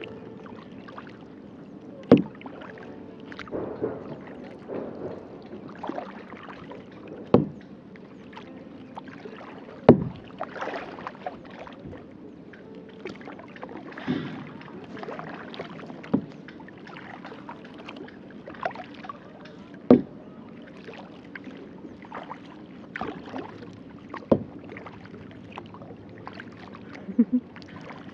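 Kayak paddling: the paddle swishing and splashing through the water, with a sharp knock every few seconds.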